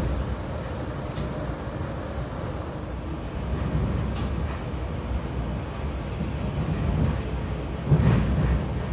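Metra commuter train in motion: a steady low rumble of wheels on rail, with a few sharp clicks and a louder knock about eight seconds in.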